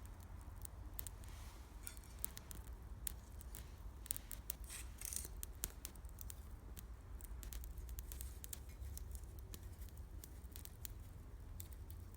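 Wood campfire crackling, with many irregular sharp pops and snaps of burning firewood over a low steady rumble, and a short hiss about five seconds in.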